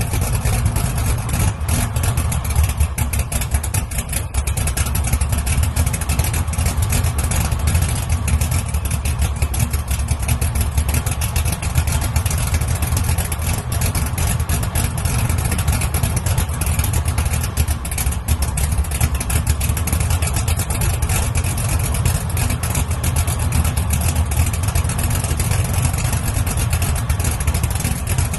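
A car engine idling steadily, loud and low, through its exhaust.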